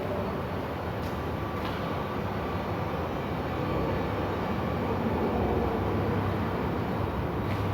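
Steady rumbling noise with a low hum, with a few faint ticks.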